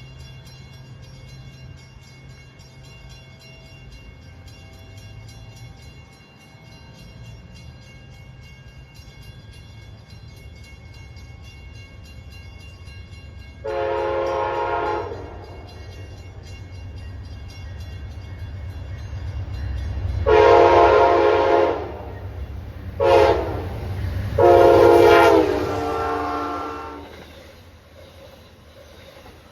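Approaching train's multi-tone horn sounding long, long, short, long: the grade-crossing warning signal. Underneath is a low rumble that builds as the train draws near and fades near the end.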